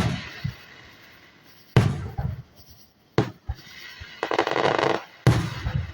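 Aerial firework shells bursting in the distance: a string of sudden deep booms about one to two seconds apart, with a rapid crackling stretch a little past four seconds in. The booms lag the visible bursts because the shells break high and far off.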